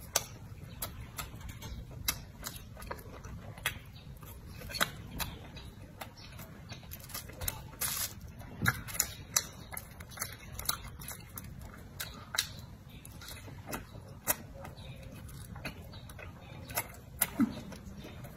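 Close-up mouth sounds of eating pan-fried buns (shuijianbao): chewing with irregular sharp wet clicks and lip smacks.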